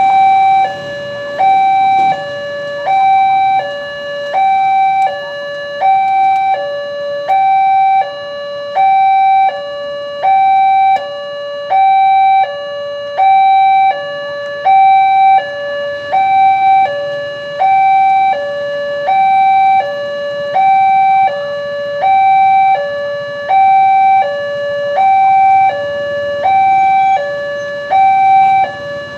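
Indonesian railroad level-crossing warning alarm sounding, two electronic tones alternating high and low in a steady repeating pattern, the higher tone louder. It signals that a train is approaching and the crossing barrier is closing.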